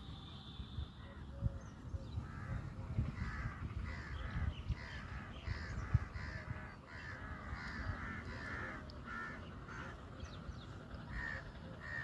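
Birds calling in quick runs of short, repeated calls, with irregular low thumps underneath.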